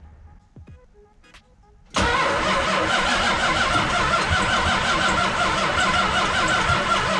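A few faint clicks, then about two seconds in the starter of a Mopar 408 stroker V8 engages and cranks the engine steadily. It turns over without catching, which the owner puts down to no fuel reaching the engine.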